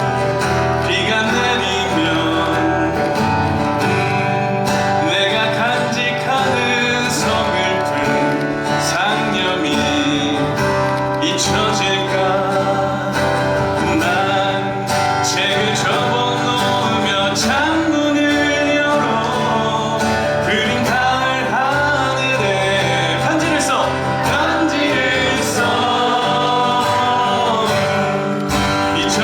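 A song performed live, with singing over an acoustic guitar and band accompaniment.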